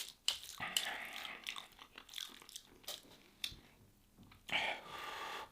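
A person chewing a mouthful of habiyah, a soft meat-and-grain dish, close to the microphone: irregular wet mouth clicks and smacks, with a louder spell of chewing near the end.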